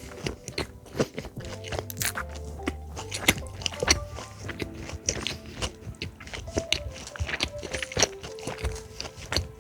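Crisp crunching and chewing as a deep-fried Korean corn dog with sausage and rice cake is bitten into, in many quick crunches. Soft background music with held tones and a bass line plays under it.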